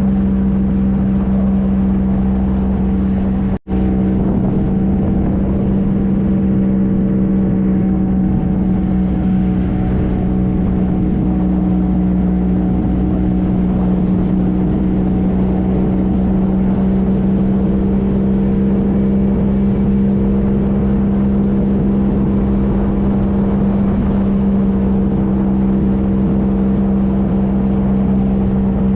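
Triumph Trophy SE's three-cylinder engine running at a steady cruising speed, its note unchanging, with wind and road noise around it. The sound cuts out for a split second about three and a half seconds in.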